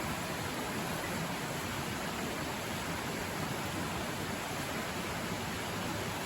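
River water rushing, a loud steady roar of flowing water.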